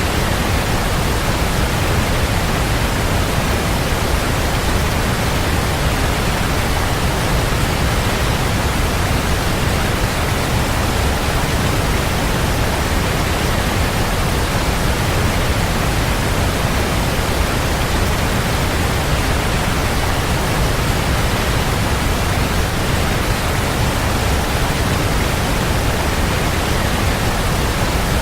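A waterfall's steady, unbroken rush of falling water, a dense even hiss with a heavy low rumble.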